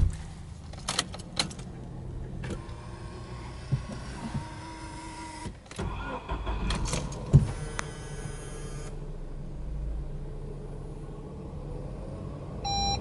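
Subaru Legacy Touring Wagon 2.0i's flat-four engine heard from inside the cabin. After a thump and a few clicks, the engine cranks briefly about seven seconds in and catches, then settles to a steady idle of about 1,200 rpm on a cold engine. Two short beeps come near the end.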